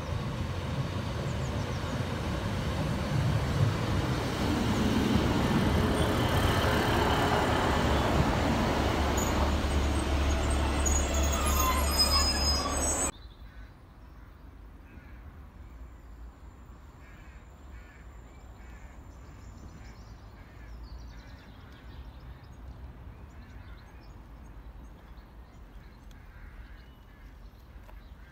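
A diesel multiple unit train running into the station, its engine and wheels growing louder and then steady, with a thin high squeal shortly before the sound cuts off abruptly about halfway through. After the cut, quieter background with a bird calling again and again.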